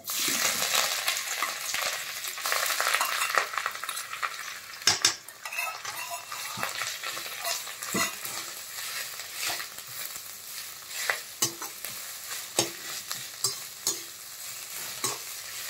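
Grated ash gourd sizzling as it drops into hot ghee in a metal kadai; the sizzle is strongest for the first few seconds, then thins out. A perforated steel spatula scrapes and knocks against the pan several times as the gourd is stirred.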